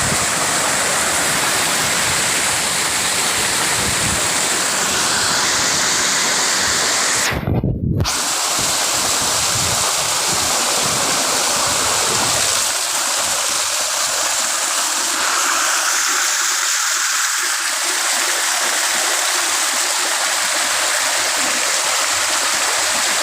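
Steady rush of flowing water, a stream or waterfall, loud and constant, with a short muffled break about eight seconds in.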